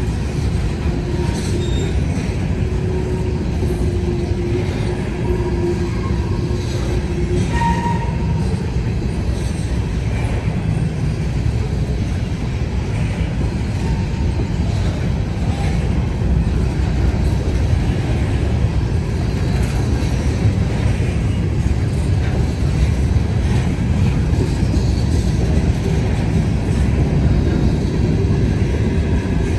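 Freight train rolling past: a steady, loud rumble of wheels and cars on the rails. A faint thin squeal from the wheels comes in the first several seconds.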